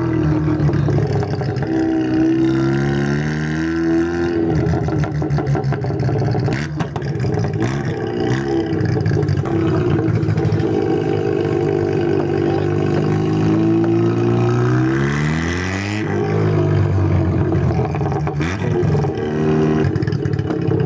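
Car engines running and being revved, the pitch rising and falling, with one long climbing rev that cuts off sharply about two-thirds of the way through.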